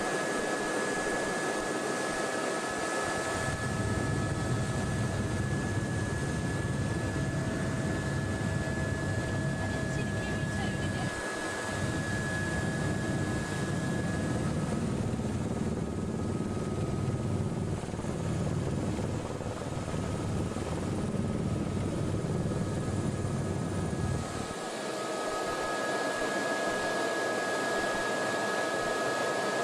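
Helicopter in flight, heard from inside the cabin: a steady rushing engine and rotor noise with several high whining tones over it. A low rumble joins a few seconds in and drops away near the end.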